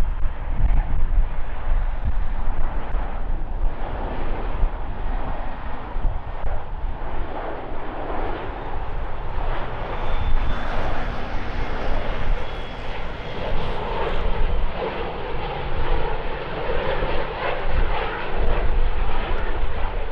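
Airbus A350-1000's Rolls-Royce Trent XWB-97 jet engines running, a continuous loud rumble with a deep low-end component.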